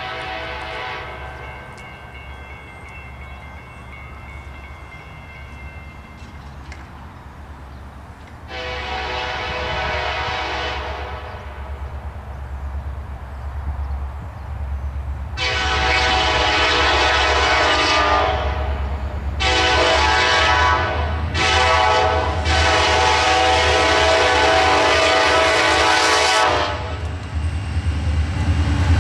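Diesel freight locomotive's air horn sounding a grade-crossing signal, long, long, short, long, after a few earlier blasts. A steady low engine rumble grows louder near the end as the train comes closer.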